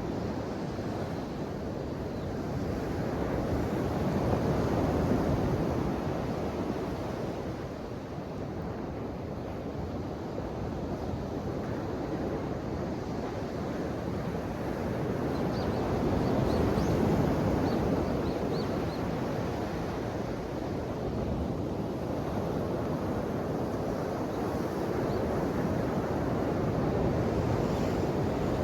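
Ocean waves breaking and washing on the shore: a continuous surf noise that swells and eases, with the louder surges about every twelve seconds.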